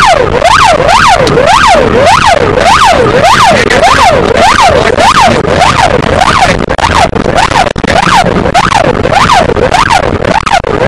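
Police car siren on a fast yelp, rising and falling about twice a second, with road and engine noise beneath it: a traffic police patrol car in pursuit.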